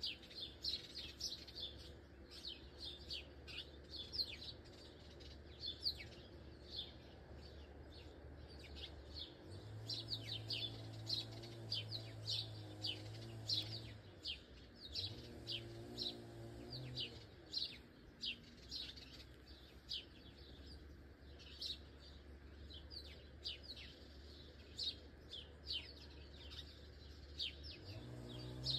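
Birds chirping steadily, many short high chirps every second, over a low steady hum. Faint music with held chords comes in briefly near the middle.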